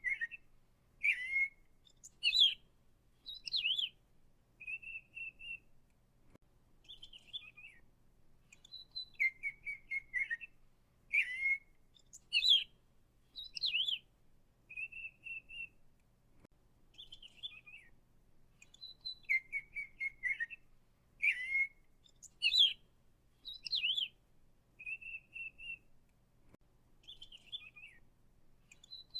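Songbird singing: a phrase of sharp chirps and short whistled notes that repeats almost identically about every ten seconds, three times over.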